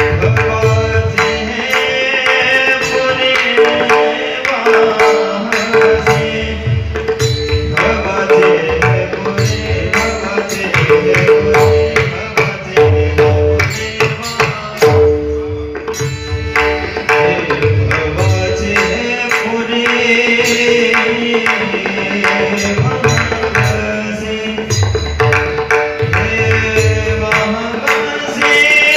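Indian devotional singing in a high voice, accompanied by a pakhawaj drum playing steady strokes with deep bass thumps over a continuous drone note.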